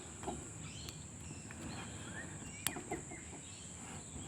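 Faint outdoor background of birds chirping, with a steady high-pitched insect drone. A couple of sharp clicks come close together a little past halfway.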